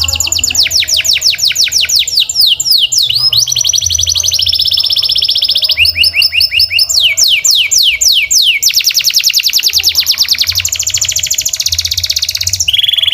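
Domestic canary singing: fast trills of rapidly repeated sweeping notes that switch to a new trill every second or two, with a long, even rapid trill near the end. The song cuts off abruptly at the end.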